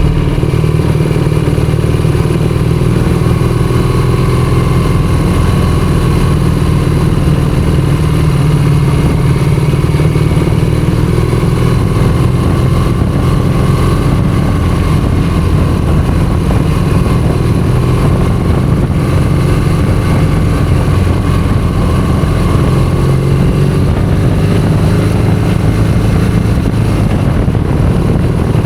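Motorcycle engine running at a steady cruise while riding, its pitch drifting gently up and down with the throttle over a heavy low rumble.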